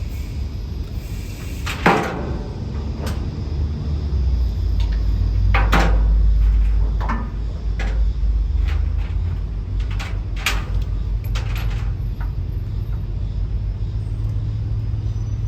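Scattered sharp metallic knocks and clicks, the loudest about two seconds in and again near six seconds, over a steady low engine rumble that swells in the middle.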